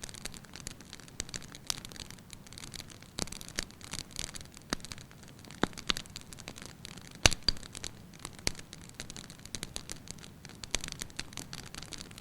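Wood fire in a fireplace crackling, with irregular sharp pops over a soft steady hiss; the loudest pop comes about seven seconds in.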